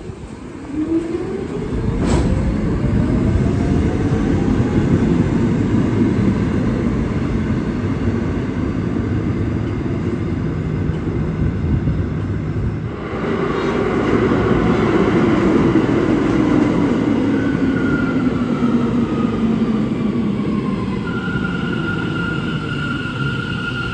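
New York City Subway A train running through the station with a loud rumble, its traction motors whining up in pitch as it pulls out. A train then comes in, its motor whine falling as it slows, ending in a steady high squeal.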